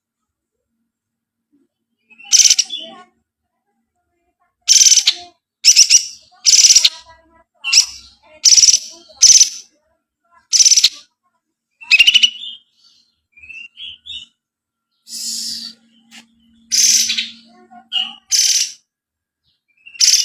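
A kapas tembak songbird singing: about a dozen loud, short, high-pitched phrases with pauses between them. A faint steady hum runs under a few phrases near the three-quarter mark.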